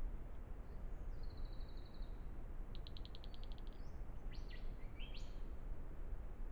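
Small birds calling: a fast high trill about a second in, a rapid run of short clicking notes near the middle, then a few quick sweeping chirps, over a steady low hiss from the trail camera's microphone.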